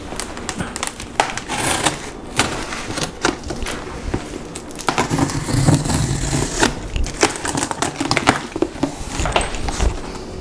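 Knife slitting the packing tape on a cardboard box, then the flaps being pulled open: a run of sharp crackles, tape tearing and cardboard rustling, busiest in the middle.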